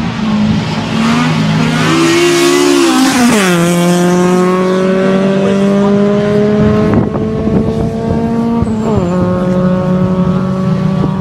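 A car engine held at high revs, its pitch slowly creeping up and falling sharply about three and a half seconds in and again near nine seconds, with a loud hiss of tyre squeal over the first few seconds.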